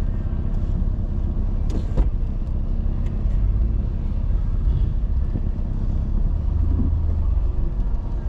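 Car running slowly, a steady low engine and road rumble, with a single short click about two seconds in.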